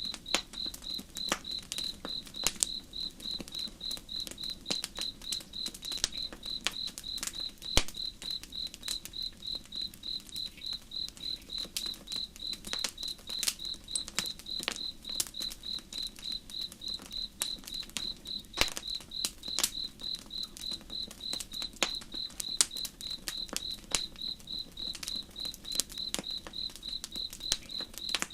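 A cricket chirping steadily, a short high note about twice a second, over a campfire crackling with irregular sharp pops and snaps. A faint low rush lies underneath.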